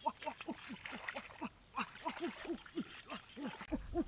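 A quick run of short animal calls, each falling in pitch, about four a second, several overlapping as if from more than one animal.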